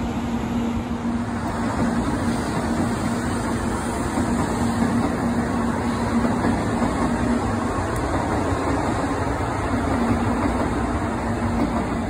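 Shinkansen bullet train running past a station platform: a steady rolling rumble with a low hum held through it.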